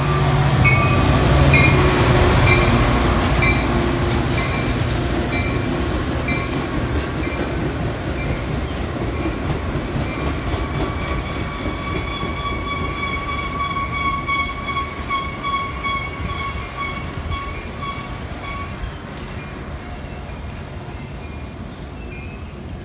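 Metra commuter train passing: the F40PHM3 diesel locomotive's engine is loudest in the first couple of seconds. The bilevel passenger cars then roll by with wheel and rail noise and a steady high wheel squeal for several seconds midway, fading as the train draws away.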